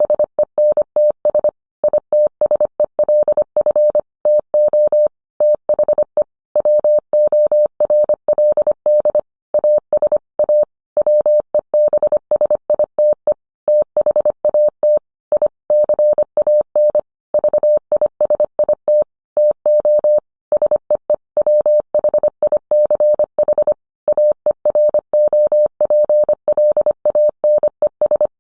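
Morse code: a single steady mid-pitched beep keyed on and off in short and long elements, dots and dashes, with brief pauses between letters and words.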